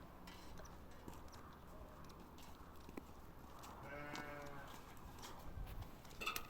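A sheep bleats once, faintly, about four seconds in, over a low background with a few light clicks.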